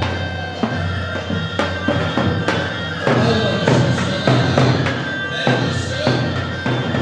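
Live wedding band playing instrumental music: a steady drum beat under a sustained melody line.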